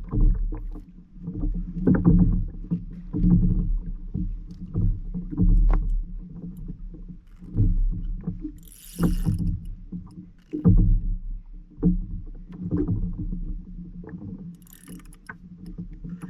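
Water slapping and knocking against a kayak hull, with irregular low thumps and a couple of short hissing bursts about nine seconds in and near the end.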